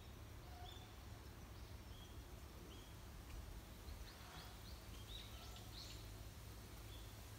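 Faint birdsong: single short high chirps about once a second, and a quick run of sweeping notes about halfway through, over a low steady background rumble.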